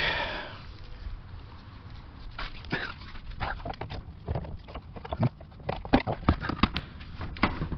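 Needle-nose pliers working a stuck plastic push clip on a car's underbody panel: irregular small clicks, taps and scrapes of metal jaws on plastic, coming thicker and louder in the second half.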